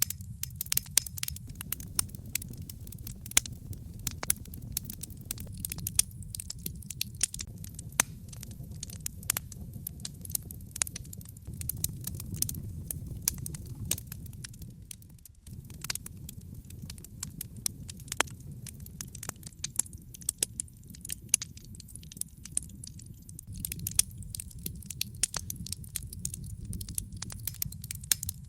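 Wood logs burning in a fireplace, crackling and popping with many sharp snaps over a steady low rumble of the flames. The rumble drops out for a moment about halfway, then carries on.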